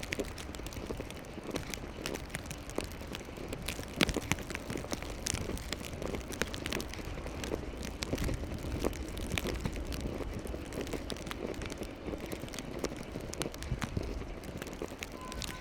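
City street ambience in a blizzard: steady wind rumble and traffic noise, with irregular crunching and crackling of footsteps in snow. Near the end a steady electronic beeping tone starts.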